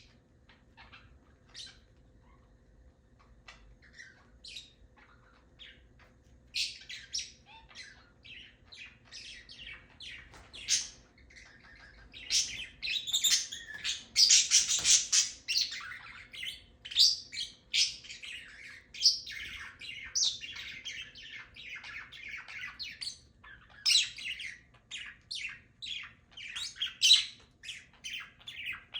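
Pet parrots chirping and squawking: a few faint chirps at first, then from about six seconds in a busy stretch of rapid high chirps and harsh squawks that peaks around the middle.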